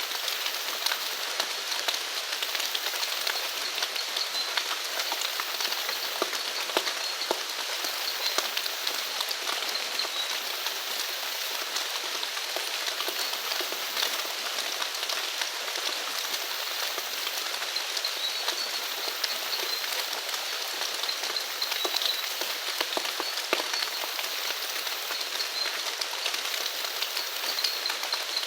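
Steady rain falling, a dense patter of drops hitting surfaces. A faint high-pitched animal call wavers in and out above it.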